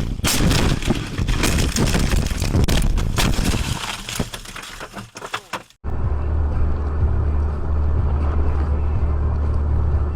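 Dash-cam recording of a car on the road: a loud noisy rush full of sharp crackles for about six seconds, which cuts off abruptly. Then a steady low drone of road and engine noise takes over.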